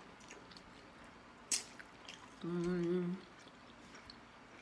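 Someone tasting food: a sharp click of a utensil about a second and a half in, then a short closed-mouth "mmm" hum, with faint mouth and chewing clicks.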